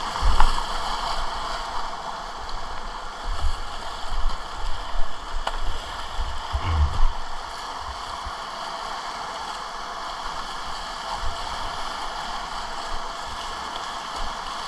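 Whitewater river rapids rushing steadily, with a few dull low thumps in the first seven seconds or so.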